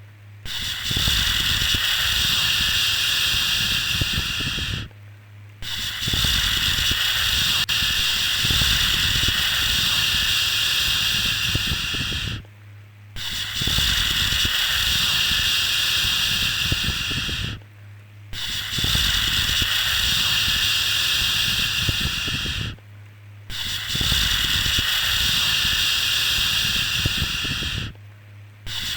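Long 'shhh' shushing sounds repeated one after another, each held for about four to seven seconds with a brief pause before the next.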